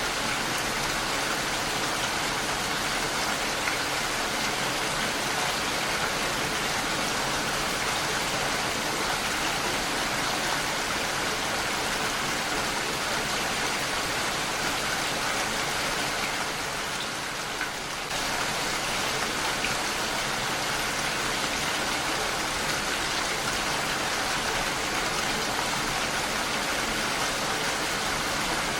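Heavy rain falling steadily on a window, a dense even patter of drops, with a brief lull about two-thirds of the way through.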